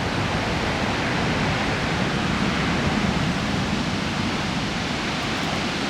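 High typhoon-driven surf breaking against the shore: a steady rushing of water that swells slightly about halfway through.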